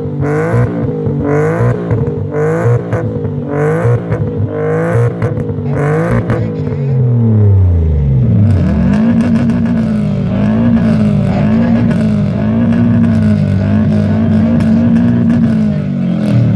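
Car engine revved in quick blips about once a second, then the revs fall away; from about nine seconds in, an engine is held at raised revs that rise and fall gently.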